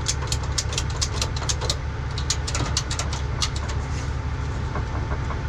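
Hand ratchet working the drive shaft bolts: two quick runs of sharp clicks, about five a second, with a short pause between them. Under it is the steady low idle of a diesel truck engine.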